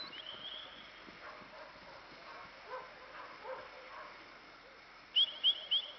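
A small bird calling: one short high call just after the start, then a quick run of four high chirps about five seconds in.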